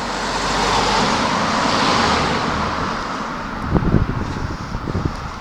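A road vehicle passing by: its noise swells to a peak about two seconds in and then fades away. Near the end come a few low thumps.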